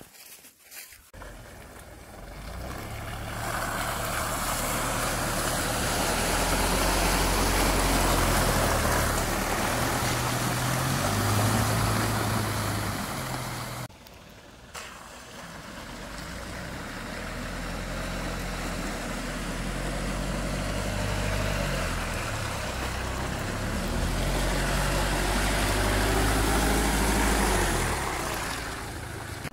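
Mitsubishi Delica van driving, with engine and road noise building up and holding. It breaks off suddenly about halfway through, then builds up again.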